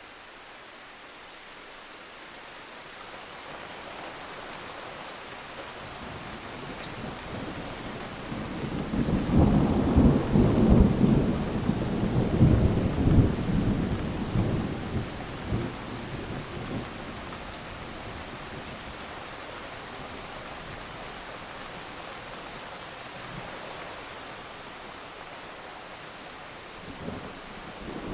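Steady rainfall with a long rumble of thunder that builds, peaks about ten seconds in and rolls away over several seconds; a smaller rumble follows near the end.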